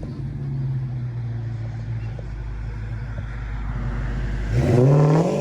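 Car engine running at a steady low pitch, then revving about four and a half seconds in, its pitch climbing quickly and getting louder.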